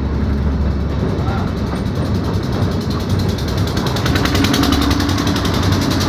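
Narrow-gauge toy train coach running, heard from inside: a steady rumble with a fast rattle that grows stronger about halfway through.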